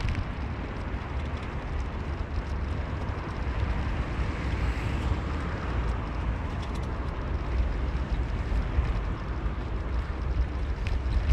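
Steady low rumble of a moving car, road and engine noise, with a few light ticks here and there.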